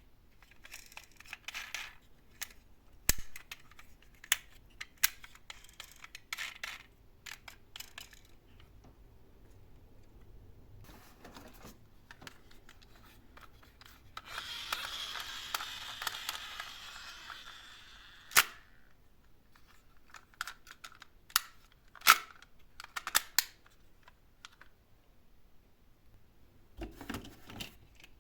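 Small die-cast toy cars and their cardboard boxes being handled, with scattered sharp clicks and clacks. About halfway through, a toy car rolls for a few seconds with a steady rattling hiss that ends in a sharp clack.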